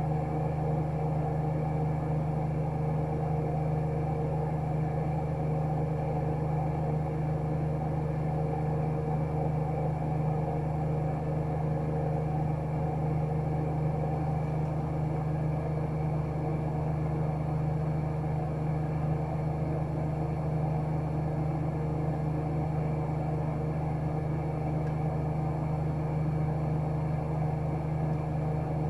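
AEG Öko-Lavamat 76910 washing machine, driven by an inverter-fed three-phase induction motor, spinning its drum at a steady high speed with a constant low hum, typical of the final spin near the end of the wash cycle.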